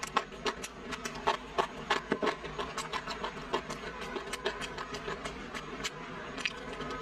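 Close-up chewing and crackling of a crisp fried five-spice roll: a run of sharp, irregular crunches several times a second, with more crackle as the crisp skin of a roll is pulled apart with chopsticks.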